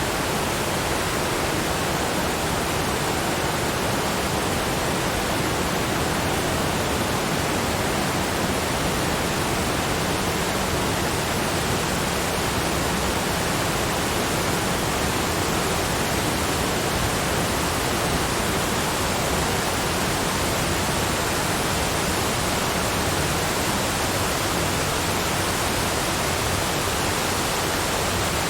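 Steady rushing water, an even, unbroken hiss spread from deep rumble to high hiss, with no single splashes or drops standing out.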